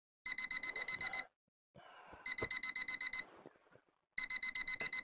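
Digital alarm clock beeping in bursts of rapid beeps, about nine to a burst, three bursts about two seconds apart. Bedding rustles faintly between the bursts.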